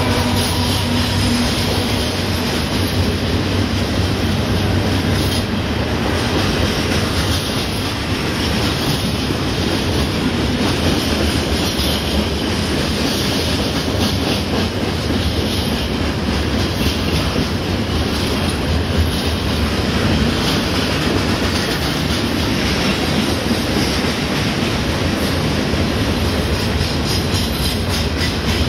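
Hopper cars of a Norfolk Southern stone train rumbling steadily past a grade crossing: wheels on rail with a clickety-clack over the joints.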